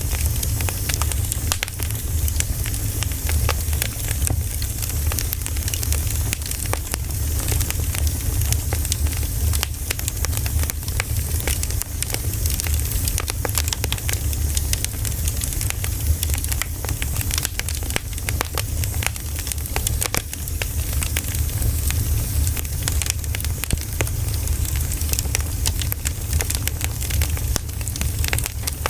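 Firewood burning, with dense, irregular crackles and pops over a steady low rumble.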